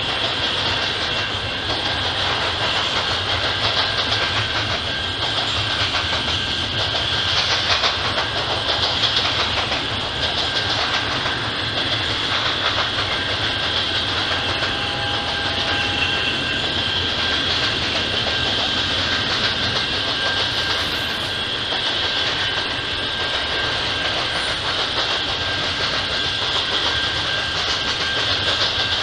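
Double-stack intermodal freight train's container cars rolling past, a steady, continuous sound of wheels on rail with no locomotive in view.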